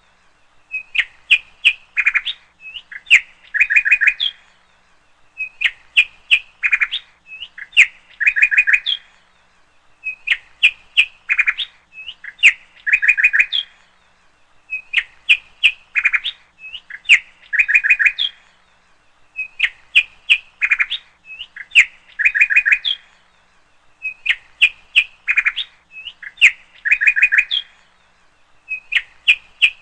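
Small bird chirping in short quick bursts about every two seconds. The same pattern of phrases repeats exactly all the way through, like a looped birdsong background track.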